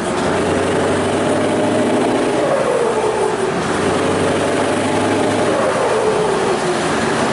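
Scania 144-530's 14-litre V8 diesel running loud, its pitch dropping twice as the engine speed falls.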